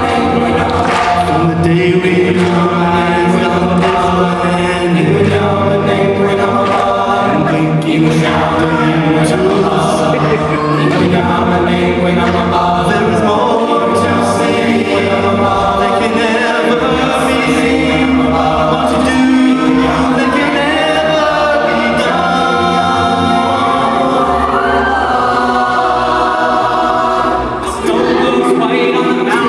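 A cappella vocal group singing a song in close harmony, voices only, with a sustained sung bass line under the stacked upper parts.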